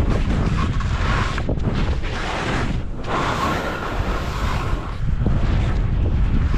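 Wind buffeting the camera microphone: a steady, loud low rumble with a hiss that swells and fades over it.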